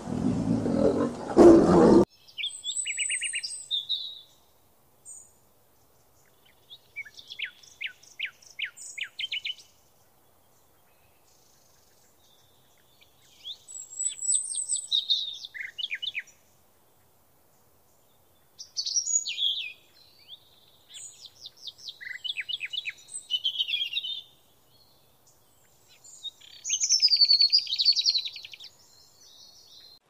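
Songbirds singing in bouts of high chirps and rapid trills, a few seconds at a time, separated by near silence. At the start a loud low rumbling noise cuts off suddenly about two seconds in.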